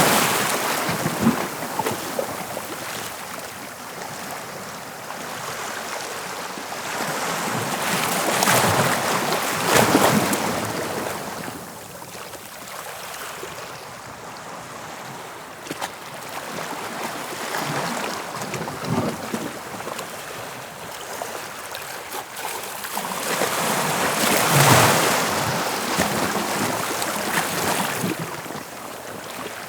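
Sea waves on the English Channel shore, an even rush of surf that swells into louder breaking surges at the start, around eight to ten seconds in, and again about twenty-five seconds in.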